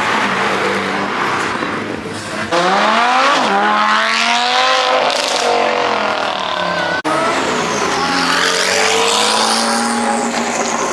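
Performance car engines revving and accelerating hard, the pitch climbing and falling with the revs. The sound breaks off sharply about two and a half seconds in and again about seven seconds in, as a new pass of engine noise begins.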